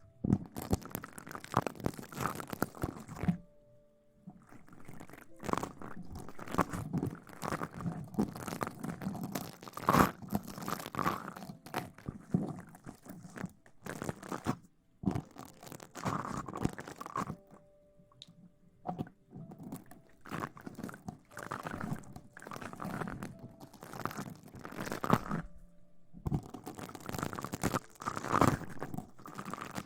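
Close-miked ASMR rustling: irregular crackly swishes, roughly one a second, broken by a few short pauses.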